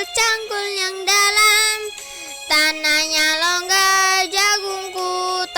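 A high, young-sounding voice singing a melody in long held notes with a slight vibrato, with a short break between phrases about two seconds in.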